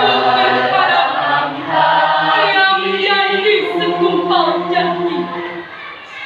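Junior high school class choir singing, many voices together in a sustained sung phrase, easing off briefly near the end.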